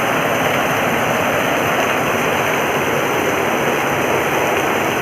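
Heavy rain falling: a loud, steady hiss that stays even throughout.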